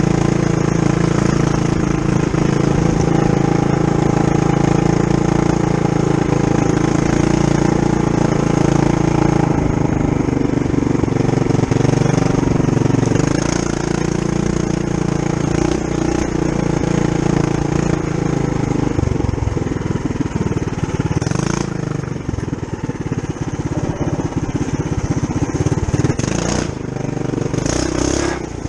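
Trail Master MB200-2 mini bike's Tillotson 212cc single-cylinder four-stroke engine, stage one with the governor gear removed, running under way. Its speed rises and falls with the throttle.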